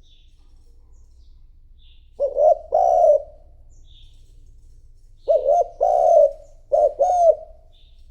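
Spotted dove cooing: a decoy dove's territorial coo, given in phrases of two or three low notes, the first about two seconds in and two more close together from about five seconds.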